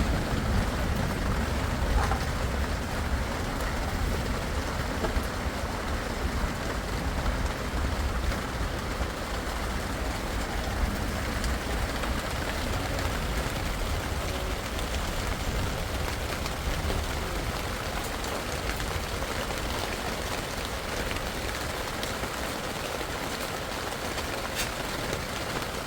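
Steady heavy rain, with a low rumble of thunder dying away over the first seconds.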